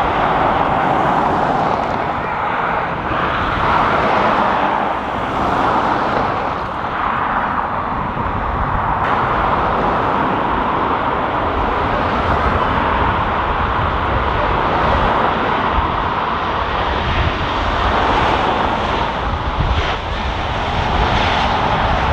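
Jet airliner engines heard close by as a loud, steady rushing noise that swells and eases slightly without stopping.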